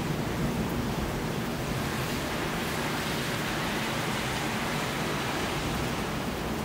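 Steady hiss of rain falling during a thunderstorm, even and unbroken.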